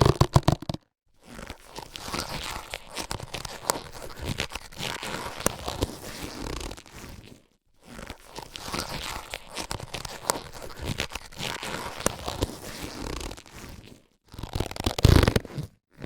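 Latex surgical gloves being handled, rubbed and stretched: a dense, irregular rustle with small sharp crackles. It comes in takes broken by short silences, with a louder, fuller burst near the end.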